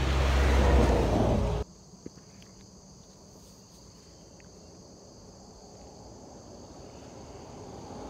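Honda Goldwing motorcycle engine and road noise while riding, cut off abruptly about a second and a half in. Then a quiet roadside with steady insect buzzing and a single faint click, and a rising rush of noise near the end.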